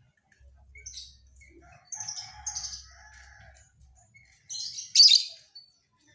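Panda canary singing in short bursts of high chirps, loudest in a phrase about five seconds in.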